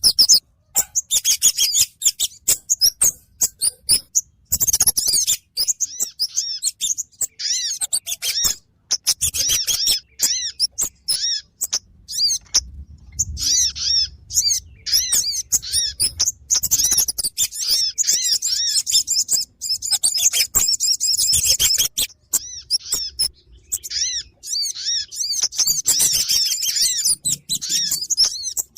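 Lure recording of kemade and sogon birds calling: dense, rapid, high-pitched chirps in repeated bouts with short breaks between them.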